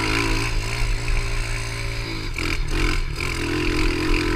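Pit bike engine running under way at a fairly steady pitch. Its note breaks off briefly a few times just past the middle, then settles steadier.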